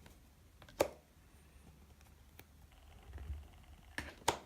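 Trading cards being handled and flipped through by hand: a few soft clicks and snaps of card against card over a quiet room.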